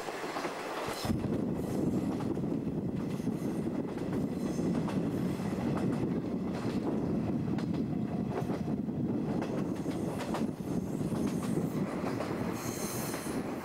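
JNR 50-series passenger coaches running along the line: a steady rumble of wheels on rail with clickety-clack over the rail joints, louder from about a second in, and a brief high squeal near the end.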